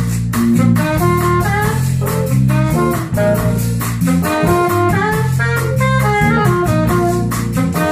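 Upbeat jazz-style band music, a melody line over a drum kit keeping a steady beat.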